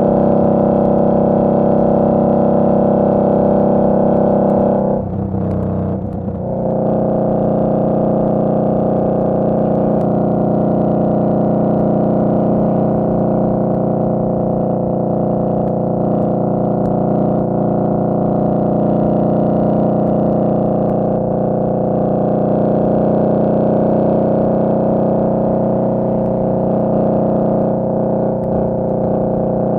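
Indian Scout Bobber's V-twin engine running steadily under way, with a brief dip and change in its note about five seconds in before it settles back to a steady drone.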